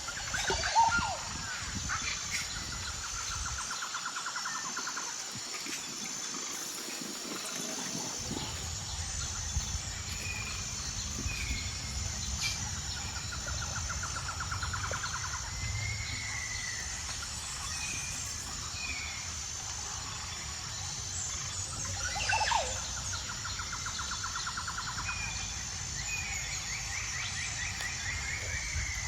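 Rural outdoor ambience: insects keep up a steady, high pulsing chirp while birds call in short chirps, and a lower rattling trill comes and goes several times.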